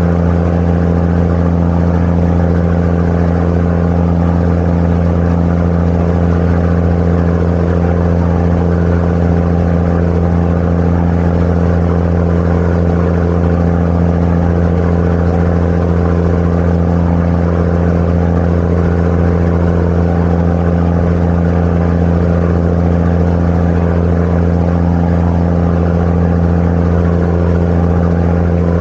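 Sightseeing boat's engine running at a steady cruising speed: a loud, constant low drone with no change in pitch.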